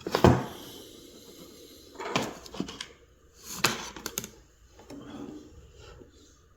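Light clicks and taps of tweezers and a soldering iron working at the wire terminals of a car-audio speaker's tweeter. They come in three clusters: a sharper knock right at the start, another burst about two seconds in, and a third about three and a half seconds in.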